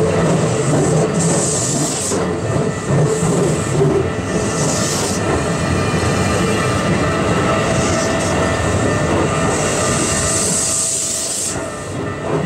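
Chiba New Town Railway 9100-series electric train passing at close range, its wheels running steadily on the rails.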